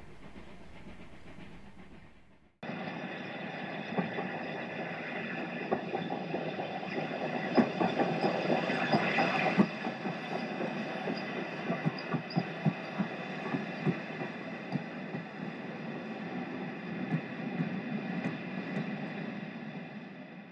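Train sound effect of passenger coaches rolling over rail joints, a rumbling clickety-clack with many knocks. It starts abruptly about two and a half seconds in, after a steady noise fades out, is busiest in the middle and dies away at the end.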